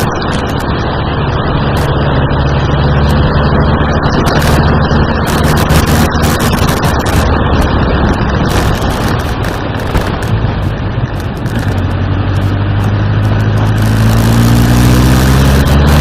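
Suzuki GSX1400's inline-four engine running on the move under a heavy, steady rushing noise; the engine note fades back in the middle, then rises steadily as the bike accelerates through the last few seconds.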